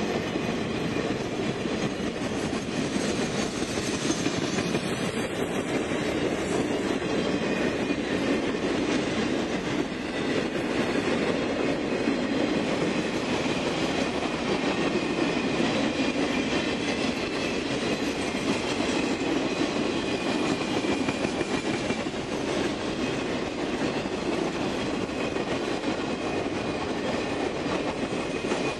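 Triple Crown RoadRailer trailers rolling past on rail bogies: a steady rumble of steel wheels on the rails, with a faint thin high whine from the wheels.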